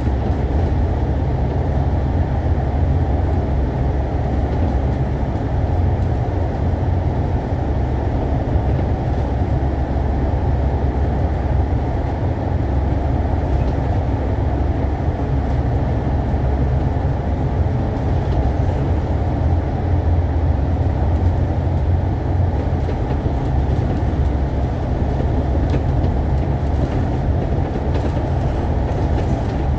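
Alexander Dennis Enviro500 MMC double-decker bus cruising steadily, its engine and road noise making a constant low rumble in the cabin.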